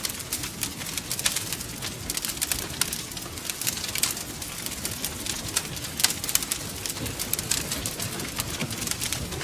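Wood fire crackling steadily: dense small pops and snaps, several a second, with a sharper snap about six seconds in, over a low steady rumble.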